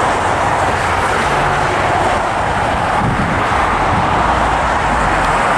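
Steady, loud roar of jet airliner engine noise.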